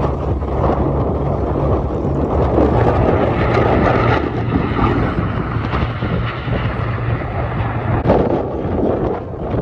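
Strong wind buffeting the microphone, a loud rumbling noise that swells in the middle and eases near the end.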